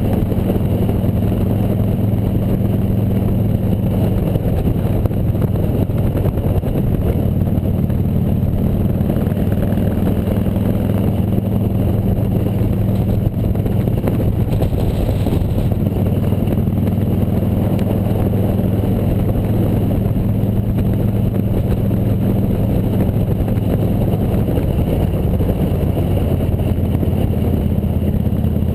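Motorcycle engine running steadily while riding, with road and wind noise. Its note shifts a little about four seconds in and again around fifteen seconds.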